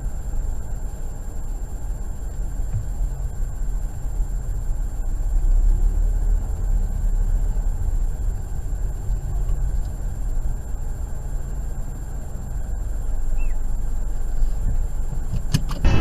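Steady low rumble of a car driving, engine and road noise as picked up by a dash camera inside the car, with a faint steady high whine over it. A couple of clicks come near the end.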